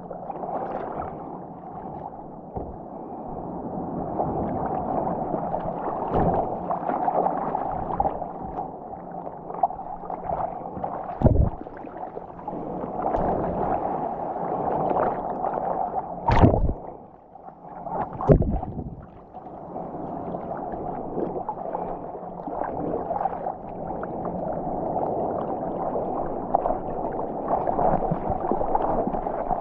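Water rushing and gurgling around a GoPro action camera as it rides through small surf waves, sounding muffled. Three sharp splashes or knocks stand out in the middle, the loudest two a couple of seconds apart.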